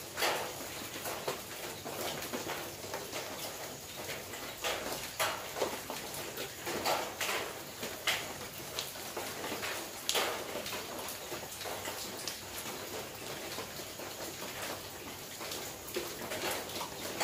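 Rain on a corrugated zinc roof: a steady hiss with irregular louder drops striking the metal, roughly one every second or two.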